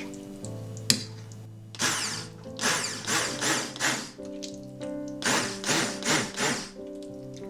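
Soft background music with a run of short, rasping kitchen strokes, about three a second, coming in two groups.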